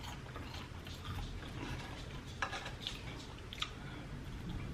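Faint, scattered clicks and clinks of eating utensils against a dish, a few light taps spread over a few seconds.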